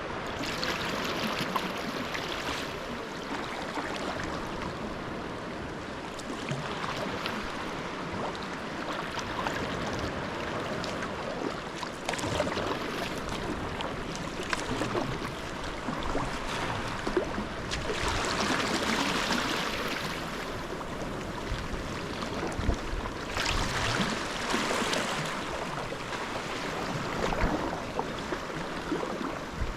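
Sea kayak moving through open water: paddle blades dipping and water splashing and gurgling along the hull, with swells of louder splashing every few seconds.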